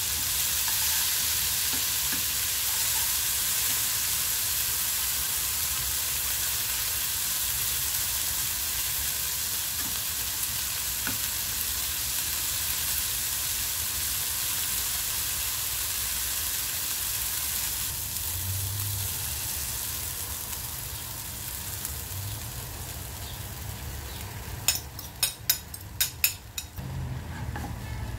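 Diced tomato, onion and garlic sizzling in a nonstick frying pan, stirred with a wooden spatula. The sizzle eases off after about twenty seconds, and near the end comes a quick run of about six sharp taps.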